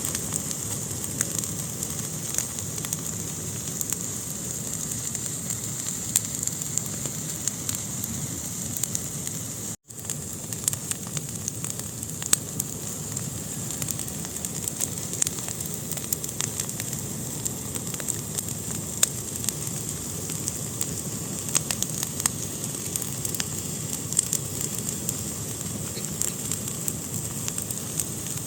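Wood fire burning in a fireplace: a steady hiss with frequent sharp crackles and pops. The sound cuts out for an instant about ten seconds in.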